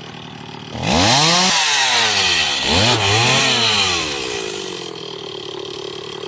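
Chainsaw idling, then revved up about a second in while cutting into the wood, its pitch rising and falling and surging again near the middle before it drops back to idle.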